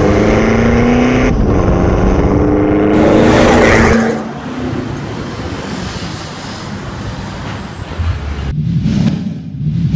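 A Mitsubishi Montero's 2.4-litre turbo-diesel engine accelerating hard through a full turboback exhaust. Its pitch rises, drops at a gear change about a second and a half in, and climbs again, then falls to a quieter, lower rumble about four seconds in.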